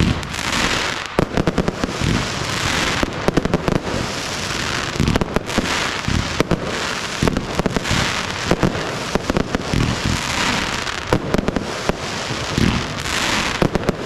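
Fireworks display: a rapid, unbroken run of shell bangs, many close together, over a continuous crackling hiss that swells and fades.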